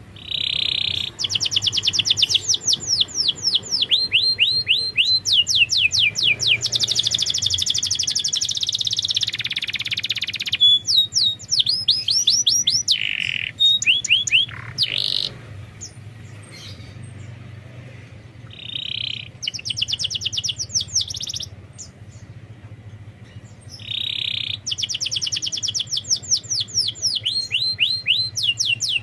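Domestic canary singing in long phrases of very fast trills, each made of rapid repeated high sweeps, broken by two short pauses around the middle.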